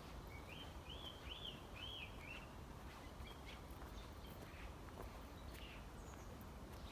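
A small songbird singing a quick phrase of about six arching notes in the first couple of seconds, with a few fainter calls later, over a faint steady low rumble and a few light clicks.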